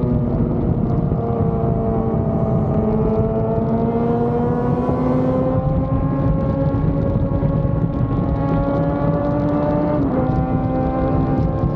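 A Yamaha FZ6 Fazer 600's inline-four engine running under way. Its pitch climbs slowly and steadily, dips briefly about ten seconds in, then climbs again.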